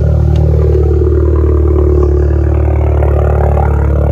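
Volkswagen Mk7 GTI's turbocharged 2.0-litre four-cylinder running at a steady cold-start idle through a catless downpipe and muffler-deleted exhaust, loud and unmuffled.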